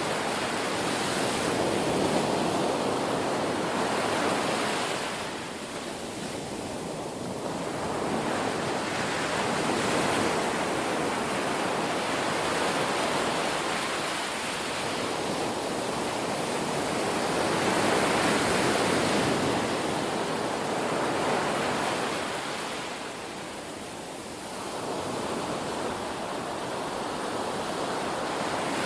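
Ocean waves breaking and washing ashore: a steady rushing hiss that swells and ebbs over several seconds, with two brief lulls between waves.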